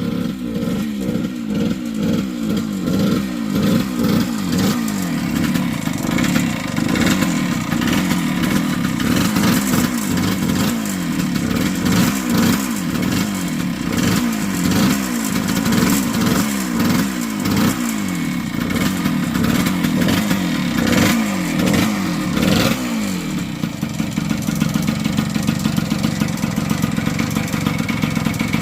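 1978 Yamaha DT100's two-stroke single-cylinder engine revving up and down again and again as the dirt bike is ridden, then settling to a steady idle about 23 seconds in. The rider judges it to be getting too much fuel, running rich, with the carburetor needing adjustment.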